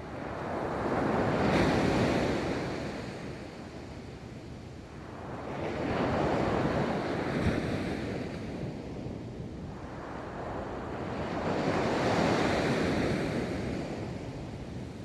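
Ocean waves breaking and washing up a beach, three waves swelling and fading about every five to six seconds, with some wind noise on the microphone.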